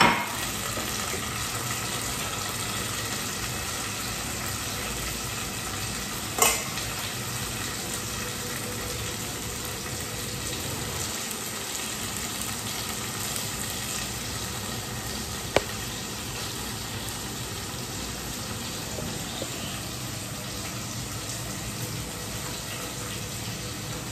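Chopped onions and tomato frying in a pan with a steady sizzle. There is a knock about six seconds in and a sharp click near the middle.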